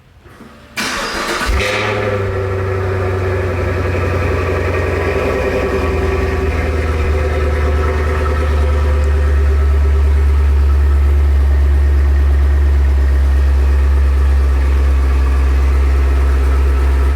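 Chevrolet Camaro SS V8 cold start on its stock exhaust: the starter cranks briefly, the engine catches about a second and a half in and settles into a loud, steady fast idle.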